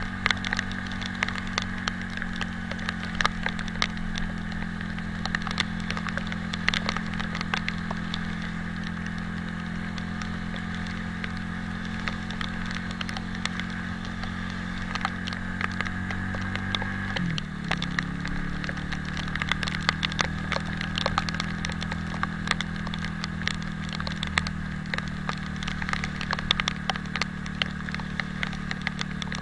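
Italika 250Z motorcycle engine running at a steady speed; about 17 seconds in its pitch drops sharply, then climbs back gradually. Throughout, sharp irregular crackles of raindrops hit the microphone.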